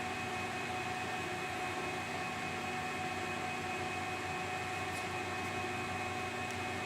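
Steady machine hum with a few constant whining tones over a noisy hiss, unchanging throughout.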